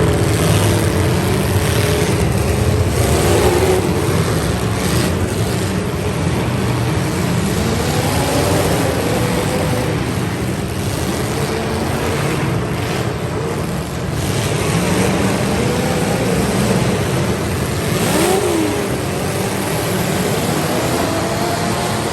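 Several demolition derby cars' engines revving and running at once, their pitch rising and falling as the drivers get on and off the throttle.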